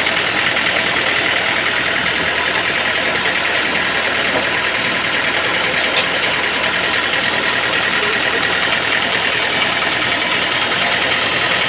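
An engine running steadily at a constant speed, with a faint short click about halfway through.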